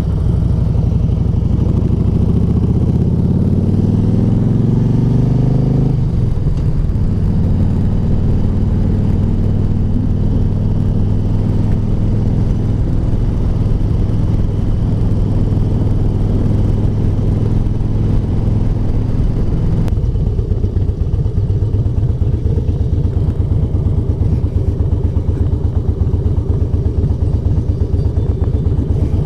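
Harley-Davidson V-twin running through American Custom slip-on mufflers fitted with quieter replacement baffles. The revs climb over the first several seconds, hold steady at a raised speed, then drop about twenty seconds in to a lumpy, pulsing idle.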